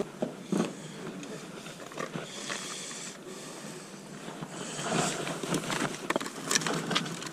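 Outdoor background hubbub of an open-air sale: a steady noise with scattered clicks and knocks. Faint distant voices become busier about five seconds in.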